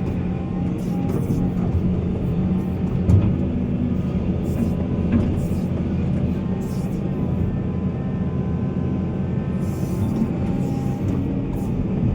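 Diesel engine of heavy mining machinery running steadily, with a sharp knock about three seconds in and a lighter one a couple of seconds later.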